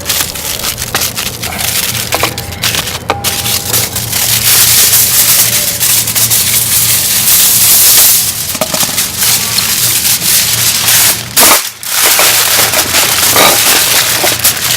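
Aluminium foil crinkling and crumpling as it is wrapped tightly, layer over layer, around a seared block of beef, with a brief pause about twelve seconds in.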